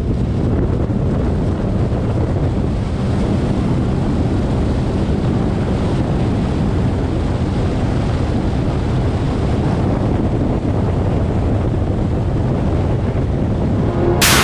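2019 Sea-Doo RXT-X 300 jet ski running steadily at speed on open water, its supercharged three-cylinder engine under heavy wind noise on the microphone and the rush of water. A brief sharp click near the end.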